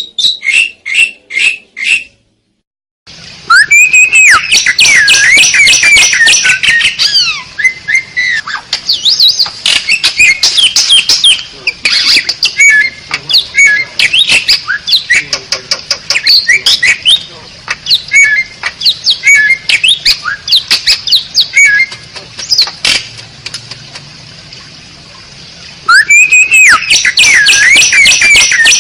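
Pied starling (jalak suren) singing: five short repeated notes, a pause, then a long, loud run of varied whistles, sliding notes and harsh chattering squawks. The song thins out a little after twenty seconds and comes back loud near the end.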